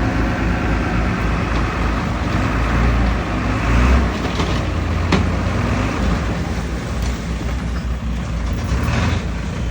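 Heavy diesel earthmoving machinery running steadily, with a sharp knock about five seconds in.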